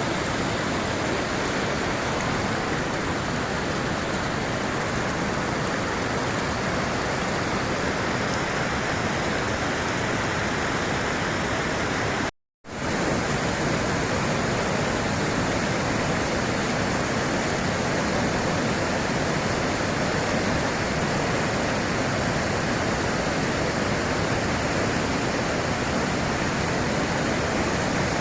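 Whitewater river rapids rushing: a steady, dense wash of water noise that cuts out for a moment about twelve seconds in.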